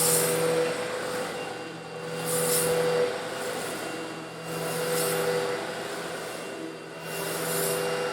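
Eureka vacuum cleaner running steadily while sucking up coarse stone granules, the motor holding a steady hum. A gritty hiss swells and fades about every two and a half seconds, with each pass over the granules.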